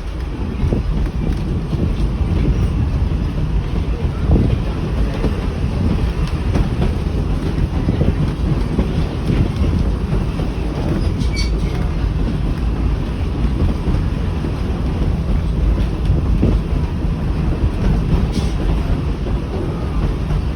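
Riding inside a 1920s Evans passenger carriage on a moving train: a steady low rumble of wheels running on the track, with occasional faint clicks.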